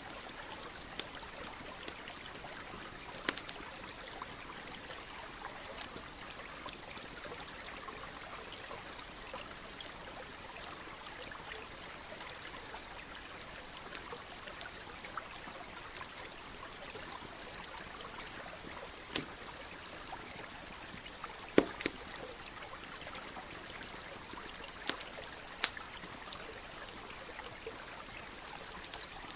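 Campfire crackling, with sharp irregular pops scattered through, the loudest a little past two-thirds of the way in, over the steady rush of a nearby stream.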